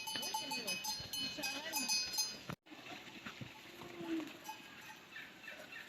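Livestock bells clinking with animals bleating. About two and a half seconds in, the sound cuts out for a moment, and afterwards it is quieter, with only scattered calls.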